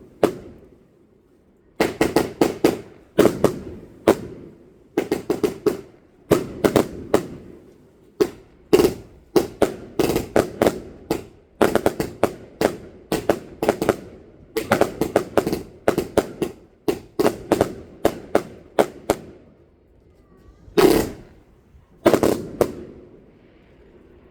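Fireworks going off in rapid volleys of sharp bangs, several a second, with brief pauses between volleys. Near the end come two single, separate bangs.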